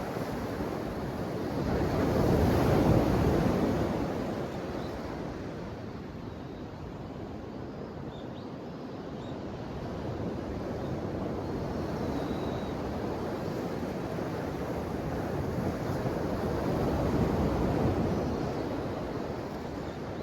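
Ocean waves washing onto the shore in a steady roar, swelling twice: once about two to three seconds in and again near the end.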